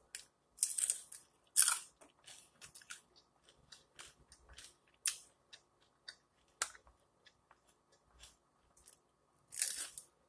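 Biting and chewing crispy fried flautas (rolled fried tortillas): loud crunches as a bite is taken about a second in and again near the end, with softer crunching and mouth clicks while chewing in between.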